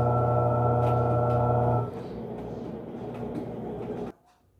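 Panasonic 14 kg washing machine running with a steady mechanical hum. The hum changes to a quieter, rougher noise about two seconds in, then cuts off near the end.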